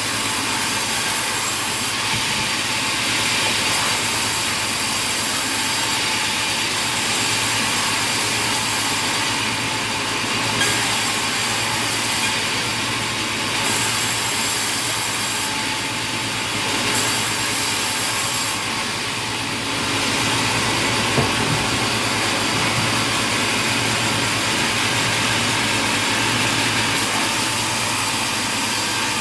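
Sawmill machinery running steadily: a constant mechanical drone and hum with a hissing upper layer that shifts every few seconds as the saw works through wood. There are a couple of short knocks, the sharpest about 21 seconds in.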